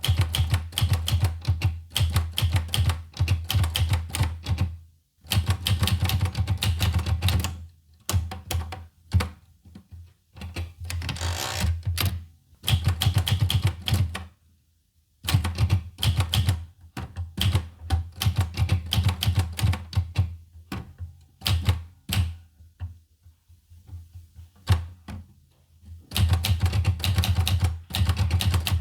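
Olivetti Lettera 25 manual portable typewriter being typed on: quick runs of sharp key strikes, broken by short pauses and one near-silent gap about halfway through.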